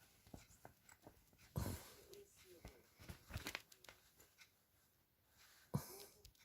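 A kitten scuffling with a plush hand puppet: soft rustling, scratching and light clicks, with two louder bumps, about one and a half and six seconds in.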